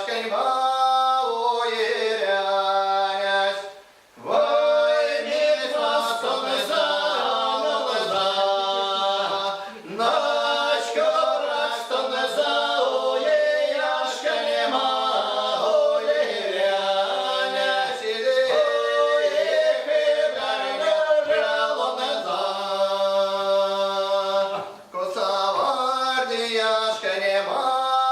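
A small ensemble singing a traditional multi-voice folk song a cappella, several voices holding long notes in harmony, with short breath pauses between phrases about four seconds in and again near the end.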